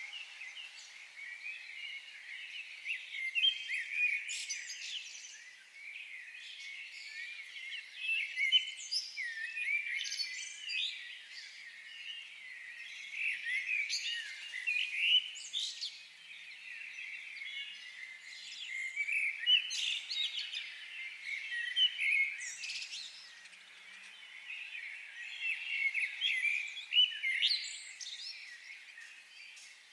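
Several birds singing and chirping, many short, quick calls overlapping in clusters every few seconds, over a faint steady hiss.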